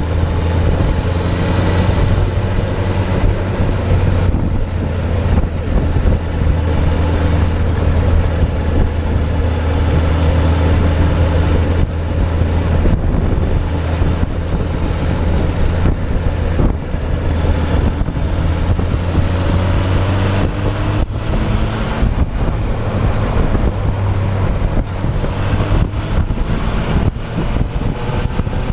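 Motorcycle engine running while riding, heard close from the fuel tank, with wind buffeting the microphone. The engine note holds steady, then rises in pitch a few times in the second half as the bike accelerates.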